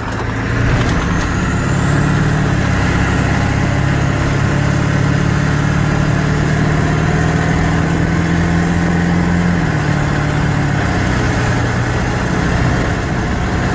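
7.3-litre Powerstroke turbo-diesel V8 of a 1997 Ford F-250 running under way on the road, its note climbing in the first couple of seconds, holding steady, then dropping about ten seconds in, over steady road noise.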